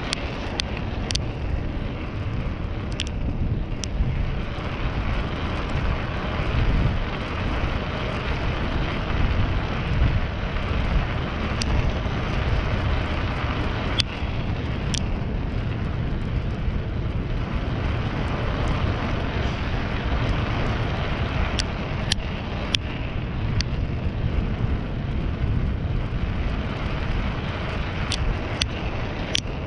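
Steady rush of wind on the microphone and road noise while riding a bicycle along a road, with a few sharp clicks scattered through it.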